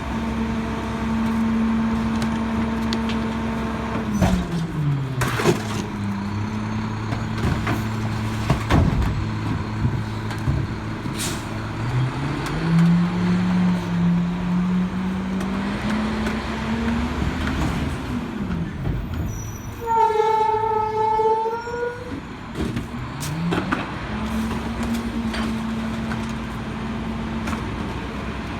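Rear-loader garbage truck packing garbage: the diesel engine sits at a raised steady speed while the packer cycles, drops to idle, then throttles back up, several times over. Knocks and bangs come from the load being compacted, and a loud whining tone lasts about two seconds near the end.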